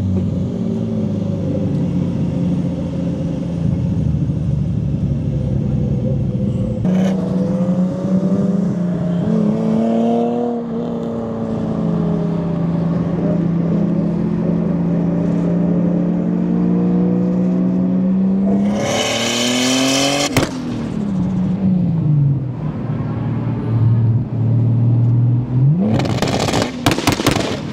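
Car engine driving on a race track, pulling through the revs and easing off: the pitch climbs about seven seconds in, climbs hard to a loud high peak near twenty seconds and then falls away, and rises again with a burst of sharp cracks near the end.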